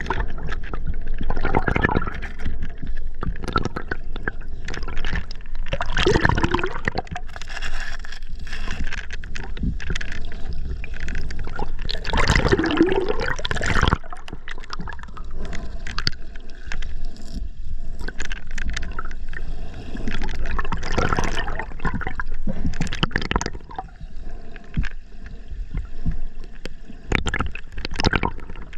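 River water gurgling and sloshing close to the microphone in irregular surges.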